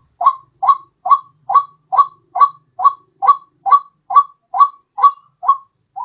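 White-breasted waterhen (ruak-ruak) call from a bird-lure recording: a short, loud note repeated steadily a little over twice a second.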